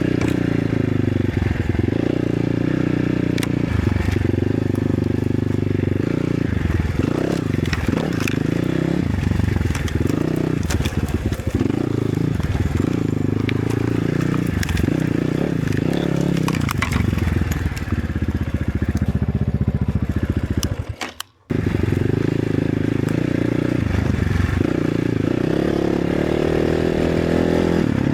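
Enduro motorcycle engine being ridden over a trail, its pitch rising and falling as the throttle is opened and closed, with scattered clicks and knocks. The sound cuts out for a moment about three-quarters of the way through.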